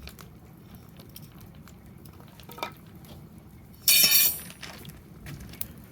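A short, bright metallic clink and clatter about four seconds in, over faint scattered crackling pops.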